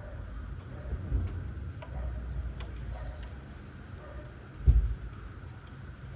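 Thunderstorm rain: a steady hiss with scattered drops ticking sharply, under low rumbling that swells a few times. A brief, louder low thump comes about three-quarters of the way through.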